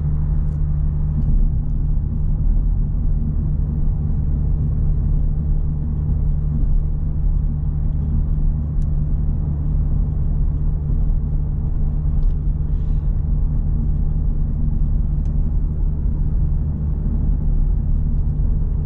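Steady low rumble of engine and road noise inside the cabin of an Audi S5 cruising along.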